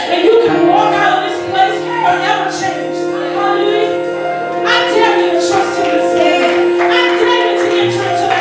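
Gospel choir singing with instrumental accompaniment: held chords and a sustained bass note under the voices.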